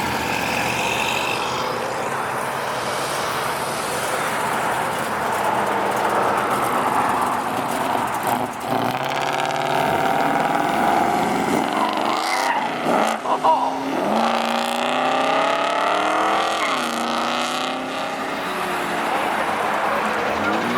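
Car engine revving hard as the car accelerates away, its pitch climbing and falling repeatedly through the revs, with a noisy rush of sound in the first few seconds.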